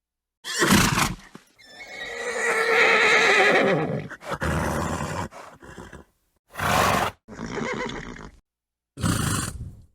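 Horse neighing and snorting: a short snort, then a long wavering whinny, followed by several short snorts, each cut off cleanly into silence.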